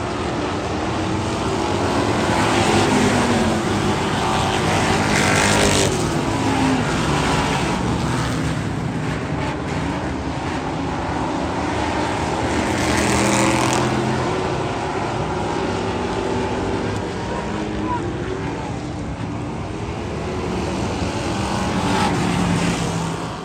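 Race car engines running around the track. Their pitch rises and falls, and the sound swells several times as cars go by.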